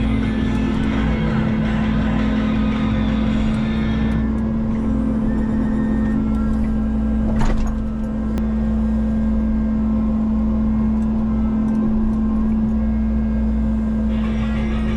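Diesel engine of a Menzi Muck walking excavator running at a steady speed. It has a louder, harsher layer of machine noise for the first few seconds and again near the end, and a sharp click about halfway through.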